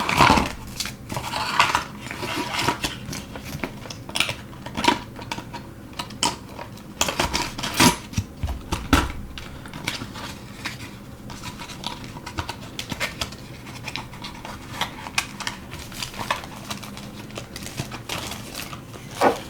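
Irregular clicks, taps and rustles of small plastic product containers and their packaging being handled and set down on a tabletop, with a few sharper knocks scattered through.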